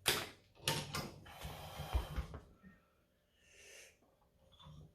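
Forceful breathing from a lifter straining to pull a 220-pound rolling thick-bar handle: a sharp snort-like breath, then a long hissing exhale with two low knocks about two seconds in, before it goes quieter.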